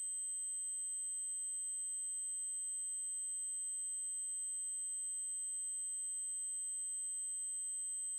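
Steady, very high-pitched electronic test tone: an 8192 Hz triangle wave held unbroken at a constant level.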